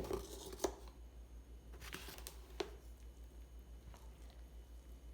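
A few sharp knocks and scrapes of a utensil against a mixing bowl as flour is worked into a heavy bread dough, all in the first two and a half seconds, then only a faint low hum.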